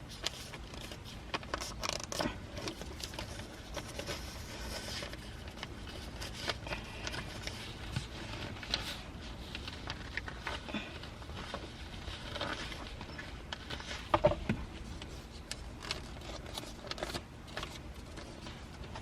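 Papers being folded and handled: light rustling and crinkling with small scattered clicks and scrapes, and a couple of sharper knocks about two-thirds of the way through.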